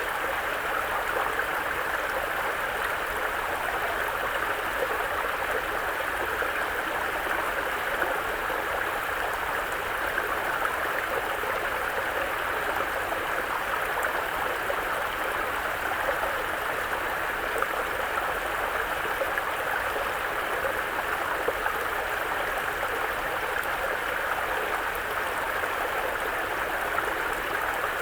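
Mountain brook running over stones, a steady rushing and babbling.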